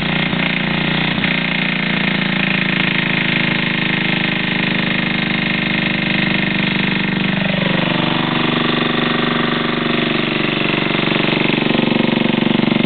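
Antique Briggs & Stratton single-cylinder engine on a Simplicity walk-behind garden tractor running steadily, with a brief falling tone about halfway through. The engine has a knock that the owner suspects is either the rod or debris from mud-dauber and rat nests in the shroud.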